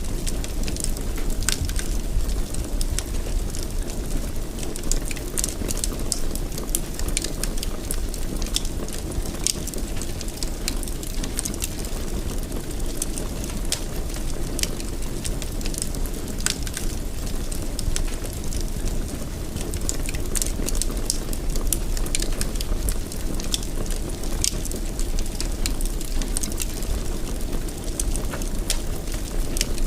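Fire burning in a fireplace: a steady low rumble of flames with frequent sharp crackles, some louder than others, scattered throughout.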